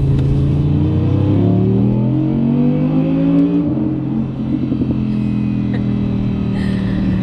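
Audi R8 Spyder's mid-mounted V10 accelerating hard, its pitch climbing steadily for about three and a half seconds. The pitch then drops suddenly at an upshift, and the engine runs on at a steady pitch.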